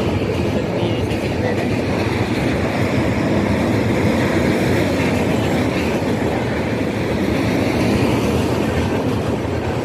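Indian Railways passenger train's coaches rolling past close by: a steady, loud rumble of wheels on the rails.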